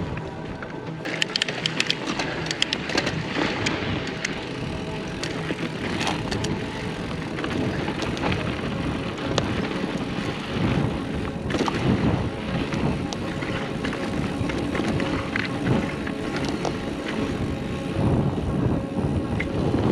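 Mountain bike riding downhill on dirt singletrack: tyres rolling over dirt and stones under a steady rumble, with frequent sharp knocks and rattles from the bike over rough ground.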